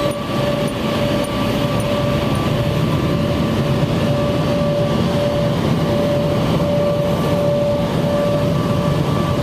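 Touch-free automatic car wash dryer blowers running, heard from inside the car: a loud, steady rush of noise with a constant whine.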